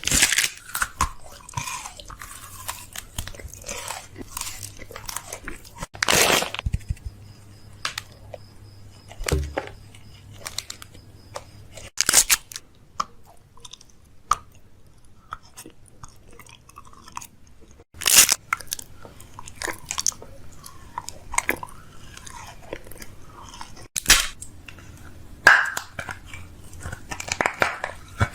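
Close-up crunching and crackling, like chewing, with a louder sharp crunch about every six seconds.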